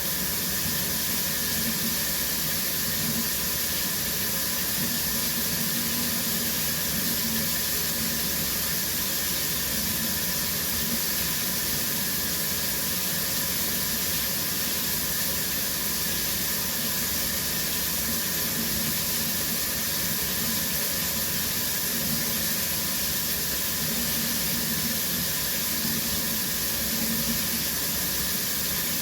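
Shower running steadily, its spray hissing down evenly.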